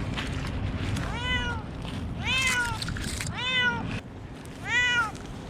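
A young cat stranded high in a tree meowing loudly, four drawn-out distress calls at about one every second and a bit, over a steady rustling background.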